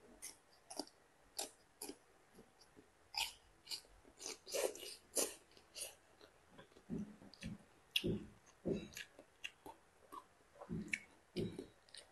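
A person chewing crisp Chinese kale stalks: irregular crunches and wet mouth smacks, becoming denser and fuller from about halfway through.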